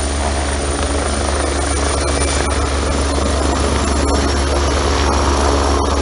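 Firefighting helicopter's rotor and engine running steadily and loud, with a strong low drone under a dense rushing noise.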